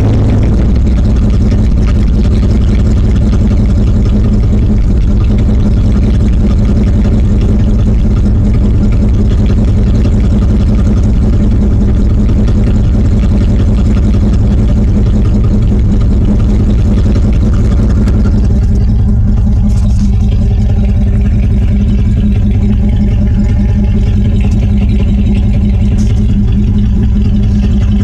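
1996 Dodge Ram 1500 engine running at a steady speed through a cut exhaust that dumps under the truck just past the catalytic converter. It is loud and overloads the phone mic, so the deep tone comes through distorted. The higher hiss thins out about two-thirds of the way through.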